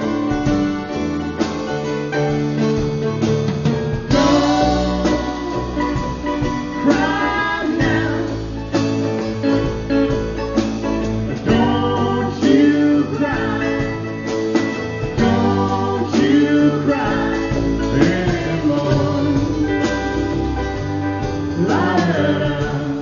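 Live acoustic band music: guitar and steady low accompaniment under a melody line that slides and bends repeatedly, with no sung words.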